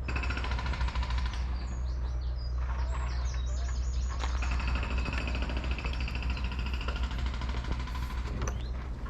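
Small birds singing: quick runs of high notes and rapid trills, over a steady low rumble.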